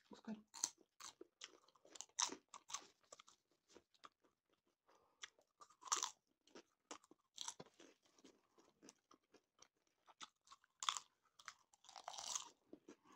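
Two people eating popcorn, close-miked: irregular crisp crunches and chewing, with a denser flurry of crunching near the end.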